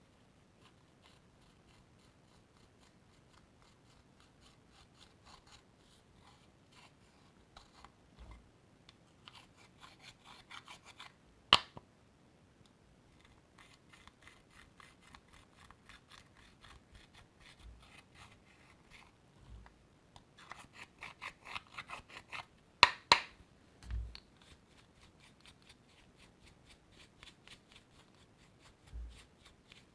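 Slime being worked and stretched by hand, giving a fast run of small sticky clicks and crackles, with a few sharp louder pops and some soft thuds.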